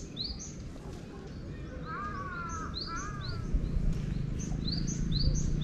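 Small birds chirping outdoors: short, high, sharply rising notes repeated over and over, with a lower warbling call twice about two seconds in. A low rumble underneath grows louder near the end.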